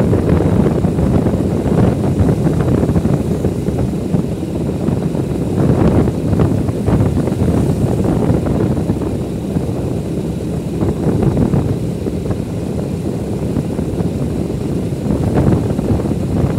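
Wind buffeting the microphone on a moving bike: a steady low rumble, with louder gusts about six seconds in and near the end.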